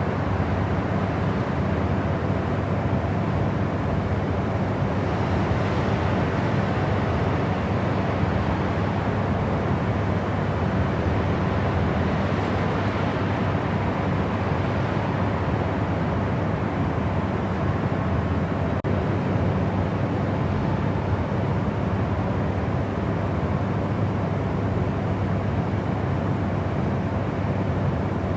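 Steady white-noise sleep track: an even, unchanging rushing noise, fuller in the low end than in the highs.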